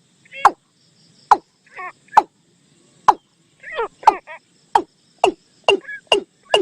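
Bird lure call recording of the bird known in Thai as nok tum, played to draw the birds in: a series of short downward-swooping notes with a few curled notes mixed in, quickening to about two notes a second in the second half.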